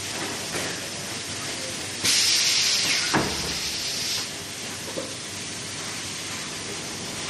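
Automatic fridge door gasket welding machine working: under a steady background noise, a loud hiss starts suddenly about two seconds in and lasts about two seconds, with a sharp clunk part-way through and a lighter click a couple of seconds later.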